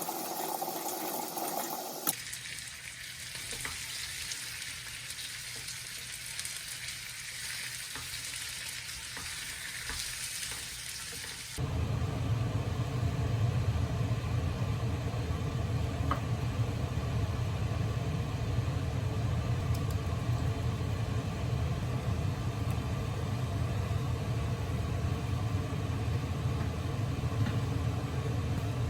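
Food sizzling in a frying pan for about ten seconds, a steady hiss. Then, at an abrupt change, a steady low hum takes over.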